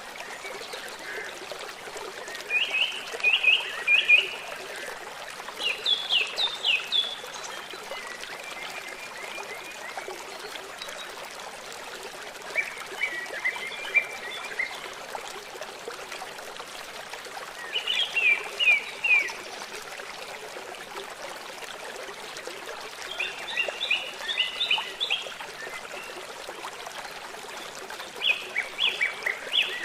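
A songbird singing short phrases of quick, sharp, falling notes, each phrase about a second long, repeated every four to five seconds. Under the song runs a steady trickle of running water.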